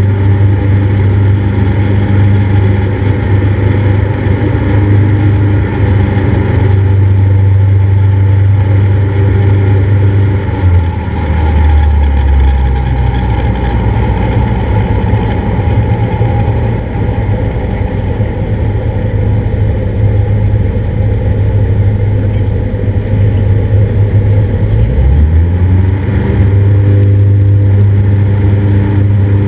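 Cessna 172's piston engine and propeller droning steadily. A bit over a third of the way in the engine note drops lower as power is reduced, and a few seconds before the end it rises back to its earlier pitch.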